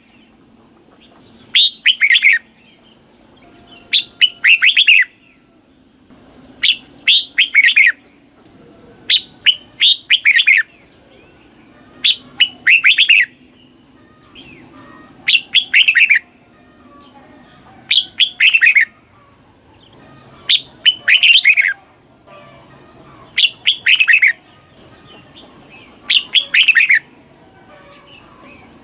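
Red-whiskered bulbul singing: a short, bright phrase of several quick falling notes, repeated about ten times at even intervals of roughly two and a half seconds.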